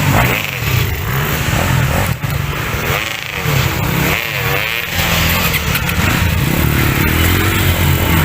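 Dirt bike engine revving hard, its pitch rising and falling again and again as the throttle is worked, settling into a steadier run near the end.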